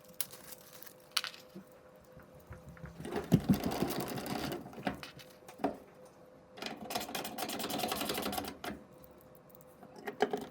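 Power drill driving screws into the dryer's sheet-metal frame in two runs of about two seconds each, one a few seconds in and one past the middle. A few light clicks come from handling parts.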